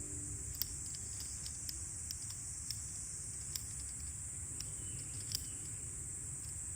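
Outdoor ambience: a steady low rumble and a steady high hiss, with scattered sharp ticks and crackles, roughly one or two a second.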